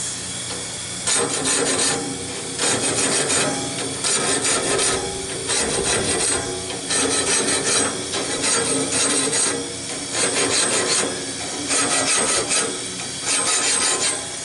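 Small hand grinder running with a steady hiss while it sharpens a Wood-Mizer bandsaw blade tooth by tooth: about ten short rasping grinding strokes, one every second and a half or so, as the dull blade is ground back to a sharp edge.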